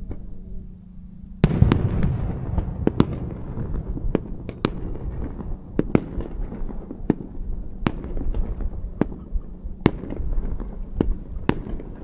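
Fireworks going off: a sudden loud burst about a second and a half in, then a string of sharp cracks and bangs over a continuous crackle.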